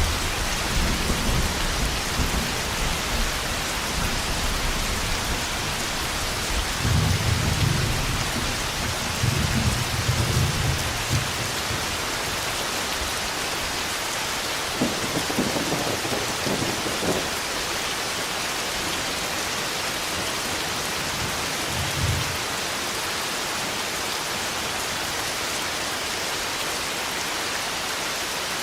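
Thunderstorm: heavy rain falling steadily, with low thunder rumbling in the first few seconds and again from about seven to eleven seconds in. A sharper crackling peal comes around fifteen seconds, and a short low thud a little past twenty seconds.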